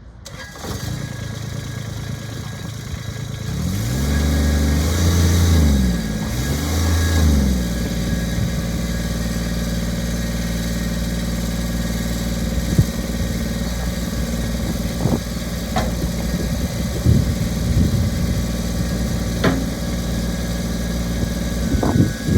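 Kubota BX24 compact tractor's three-cylinder diesel engine running. It is revved up and back down twice about four and six and a half seconds in, then settles to a steady idle with a few light clicks.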